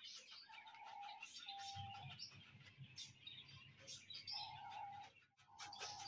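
Faint chirping and twittering of small birds, with several short, level whistled notes.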